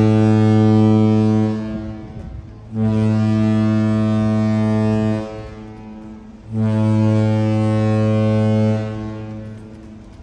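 Deep ship's horn of a cruise ship sounding three long, steady blasts. The first is already going at the start and stops a moment later, and two more follow with short gaps between them.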